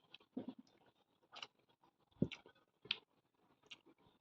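Faint, scattered mouth clicks and smacks of someone chewing food, about five short ones spread over a few seconds.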